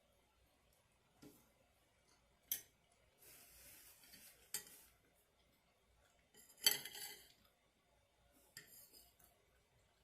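Metal spoon clinking and scraping against a food container, in a few separate knocks and scrapes with the loudest clatter about two-thirds of the way through.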